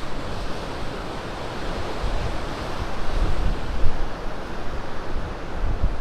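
Sea surf washing in at high tide, with strong wind buffeting the microphone in uneven low gusts.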